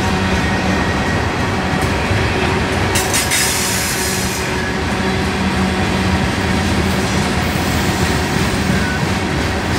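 Freight train of covered hoppers and tank cars rolling past close by: a steady rumble and rattle of wheels on the rails, with a brief burst of high hiss about three seconds in.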